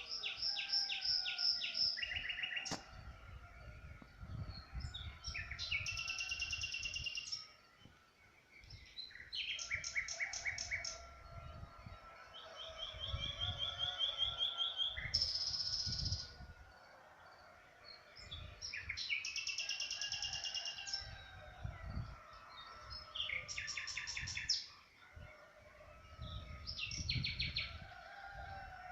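Songbirds singing: short phrases of rapid, high trilled notes, repeating every few seconds, over a low background rumble.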